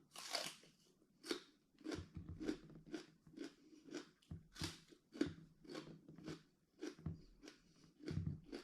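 A person chewing crunchy raw vegetables close to the microphone, with a loud bite at the start followed by steady crunching about twice a second.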